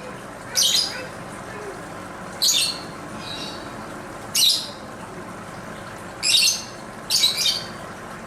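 Lovebird giving short, shrill, harsh squawks, about six separate calls spaced a second or two apart, the last two coming close together.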